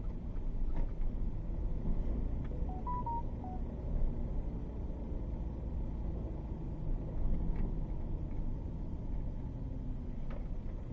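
Steady low rumble, with a short electronic chime of about five quick notes stepping up and then down about three seconds in. Faint clicks are scattered here and there.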